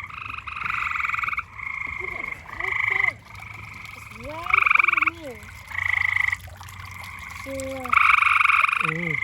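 Chorus of tree frogs chirping: overlapping pulsed trills, each lasting under a second, one caller answering another without pause.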